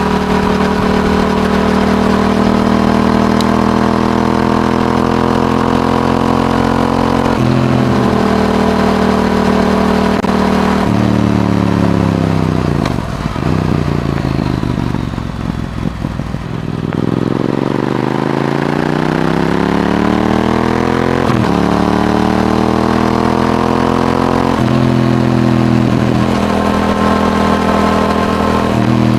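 Yamaha R7's parallel-twin engine through an Akrapovic exhaust under way. Its pitch climbs with drops at two upshifts, falls as the bike slows about halfway, then climbs again through two or three more upshifts.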